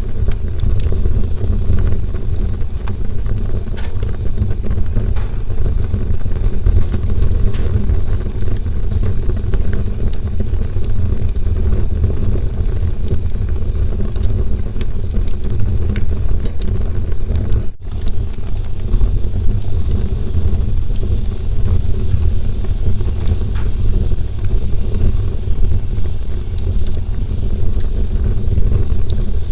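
Campfire burning: a steady low roar with scattered sharp pops and crackles, cut off for an instant about two-thirds of the way through.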